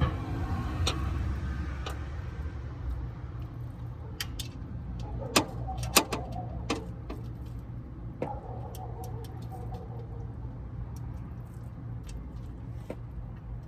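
Scattered sharp metallic clinks and small ticks, the loudest about five and six seconds in and another about eight seconds in, some ringing briefly, over a steady low hum.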